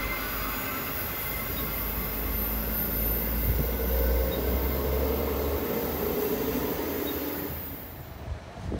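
Queensland Rail electric suburban train pulling away round a curve: a low rumble of wheels and traction with thin, high squealing tones over it. The sound fades and cuts off shortly before the end.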